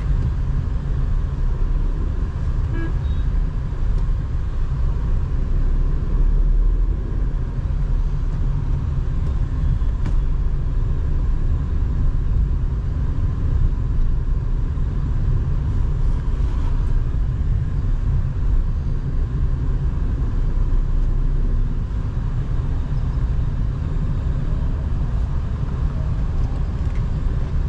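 Tata Nexon driving in traffic: a steady low engine and road rumble.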